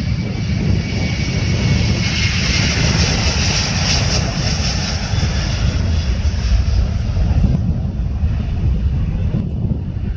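Jet airliner's engines roaring on takeoff, with a heavy low rumble. The roar swells to its loudest a few seconds in, then eases slightly. A thin high whine fades out over the first few seconds.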